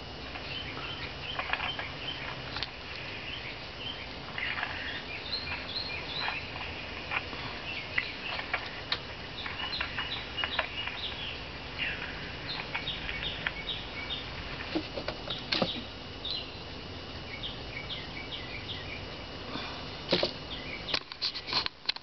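Small birds chirping repeatedly in short high calls, with scattered light clicks.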